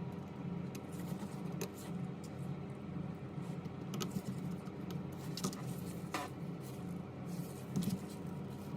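Scattered light clicks and taps, about a dozen, over a steady low pulsing hum.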